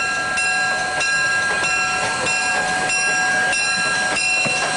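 A train passing close by, with a rhythmic ringing about twice a second over steady ringing tones.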